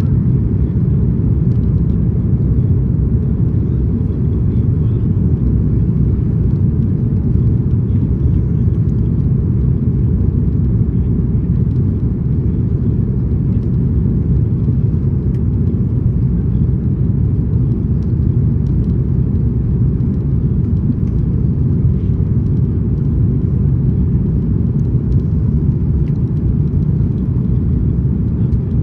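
Steady low rumble of airliner cabin noise inside an Airbus A330-200 in flight, with engine and airflow noise holding even throughout.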